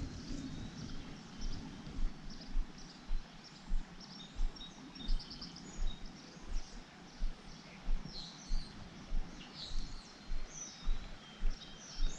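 Songbirds chirping and trilling over the steady rush of a spring creek. Soft low thumps come at an even pace, about three every two seconds.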